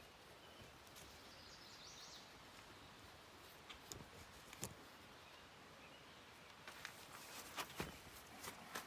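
Near silence: faint background noise with a few scattered light clicks and knocks, which come more often near the end.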